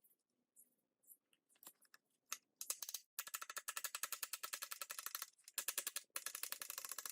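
A few scattered light clicks, then fast, even scraping strokes at about ten a second, in runs broken by short pauses.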